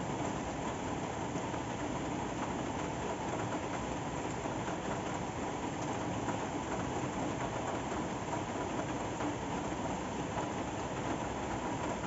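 Steady rain falling, an even hiss with scattered faint drips.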